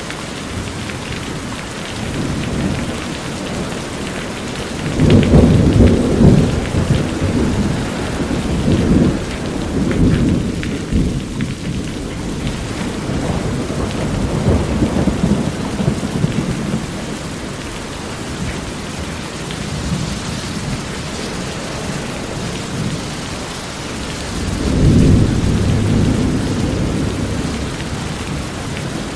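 Steady heavy rain drumming on a house's corrugated roof. Thunder rolls twice: a long rumble about five seconds in and another near the end.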